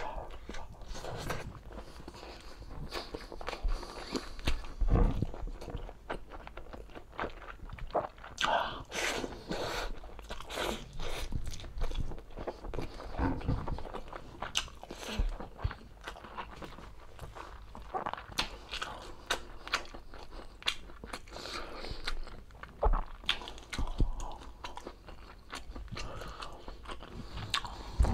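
A person chewing and eating soft braised pork humba with rice, with many irregular short mouth clicks and wet chewing sounds.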